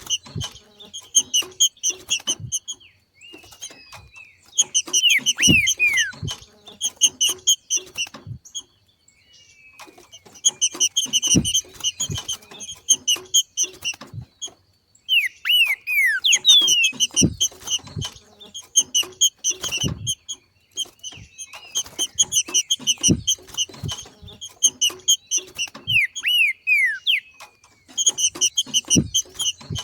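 Green-winged saltator (trinca-ferro) giving its 'macheado': phrases of rapid, repeated chattering notes, each a second or two long with short pauses between, mixed with a few falling whistled slurs and low thumps. The macheado is the call of a bird coming into breeding condition.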